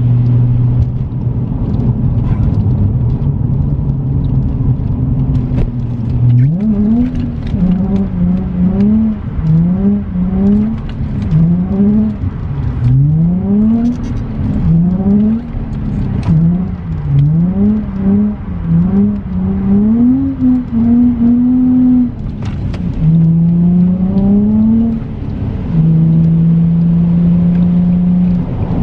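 Car engine held at a steady speed, then revved up and dropped again about once a second as the car is drifted through corners on a wet road, then held at a steadier, higher speed near the end.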